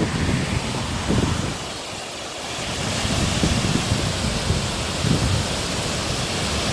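A waterfall rushing as a steady hiss, with wind buffeting the microphone in low gusts.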